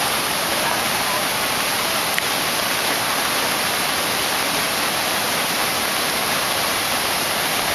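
Fast-flowing rainwater rushing past in a steady, unbroken torrent, with a single faint tick about two seconds in.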